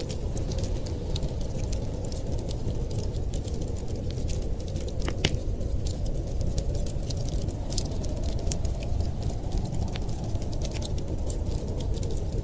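Wood fire crackling, with irregular sharp pops and snaps, one louder about five seconds in, over a steady low rumble.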